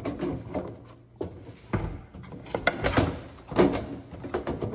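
Irregular clicks, knocks and light rattles of hard parts being handled and set down, a cluster of them about two and a half seconds in and a sharper knock soon after.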